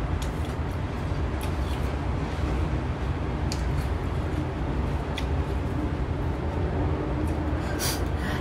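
A steady low rumble throughout, with a few sharp, short crunches from chewing crisp young mango, scattered a second or two apart.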